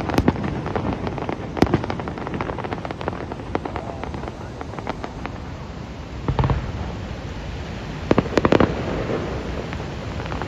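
Fireworks display going off: scattered crackles and pops with heavier bangs, a cluster of them about six seconds in and another a little after eight seconds, over a steady rushing noise.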